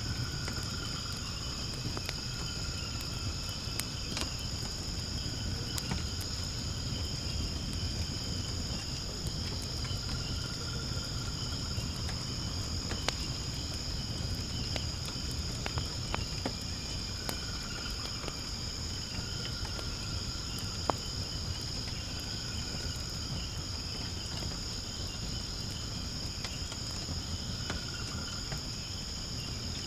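Wood fire in a fire pit burning with a low steady rush and scattered crackles and pops, two of them sharper about 13 and 21 seconds in. A steady high chorus of crickets or other insects runs throughout, with a lower trill coming and going every few seconds.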